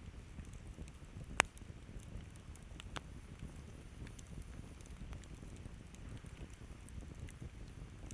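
Campfire burning with a low steady rumble and scattered small crackles, with one sharp loud pop about a second and a half in and a smaller one about three seconds in.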